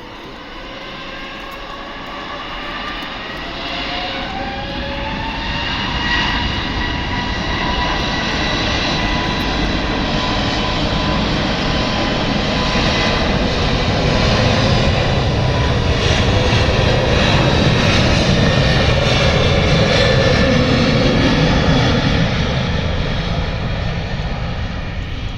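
Airbus A321neo's twin Pratt & Whitney PW1100G geared turbofans spooling up for takeoff, a whine of several tones climbing in pitch over the first few seconds. The jet noise grows louder as the airliner accelerates down the runway, peaks past the middle, and begins to fade near the end.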